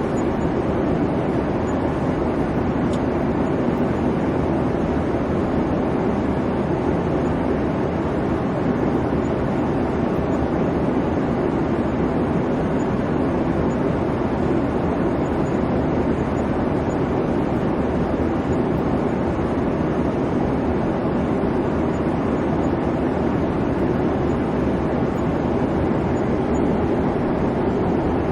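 Airliner cabin noise: a steady, even rumble of engine and airflow, heaviest in the low-middle range, with no changes.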